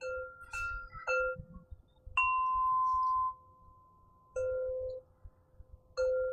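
Crystal harp tones ringing: about six struck notes on two pitches, low and high. The higher note, about two seconds in, is the loudest and rings on for about a second.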